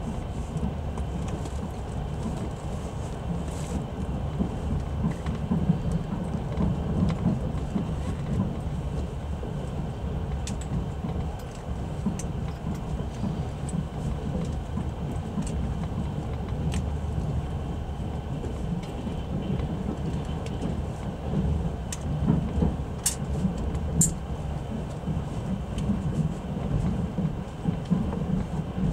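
Passenger train carriage running along the track, heard from inside: a steady low rumble of wheels on rails, with occasional short sharp clicks.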